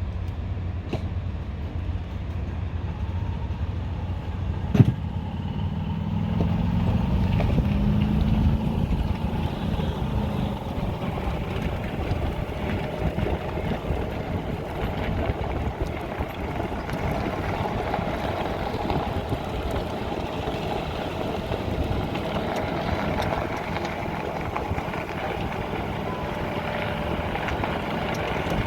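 Steady low mechanical rumble, like running engines or machinery, with a single sharp knock about five seconds in.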